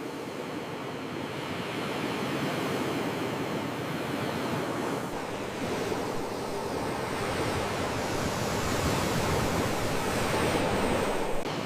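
Sea waves washing onto the shore, a steady surf that slowly builds in level, with a brief sharp click shortly before the end.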